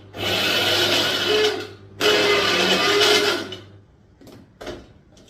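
Electric mixer grinder running in two bursts of about two seconds each, grinding grated coconut, chilies and cumin seeds into a paste, then two short pulses near the end.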